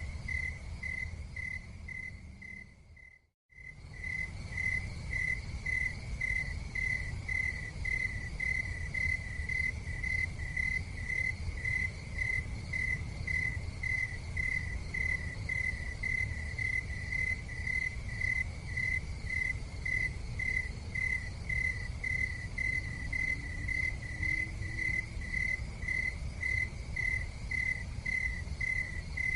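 A cricket chirping in a steady rhythm, about two chirps a second, over a low steady rumble. About three seconds in the sound fades out briefly and comes back.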